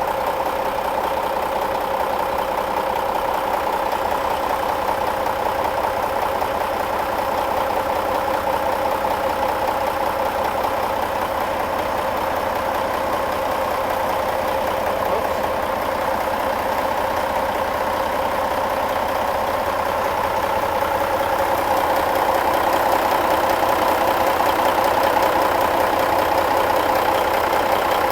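An engine idling steadily, getting a little louder about three quarters of the way through.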